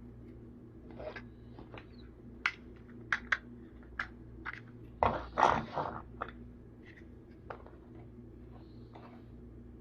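Small plastic toy vehicles being handled: scattered light clicks and taps, with a louder rattling scrape about five seconds in, over a low steady hum.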